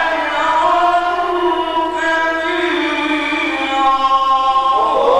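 A male Quran reciter chanting in the melodic mujawwad style, holding long notes that slowly bend in pitch, with a change of pitch near the end.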